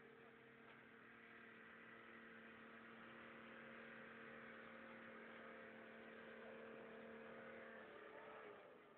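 Faint, steady engine hum from an off-road 4x4 working through brush, at an even pitch, fading out near the end.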